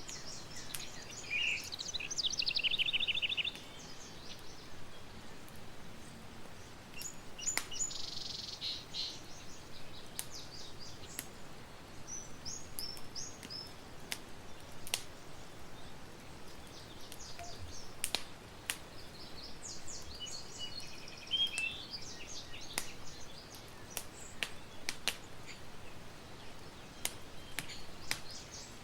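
Campfire crackling, with sharp pops at irregular intervals over a steady soft hiss, while small birds sing in short trilling bursts now and then.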